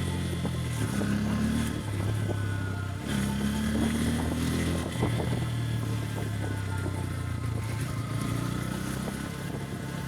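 Motorcycle engine under way, its pitch climbing under throttle and dropping back several times as it shifts through the gears, over road and wind rush.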